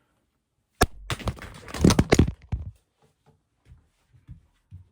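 Close handling noise: a sharp click about a second in, then about two seconds of loud rustling and knocking, fading to a few faint ticks.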